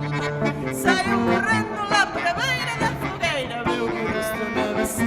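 A folk band playing live in an instrumental passage. A lead melody slides and wavers in pitch over held bass notes and a steady beat.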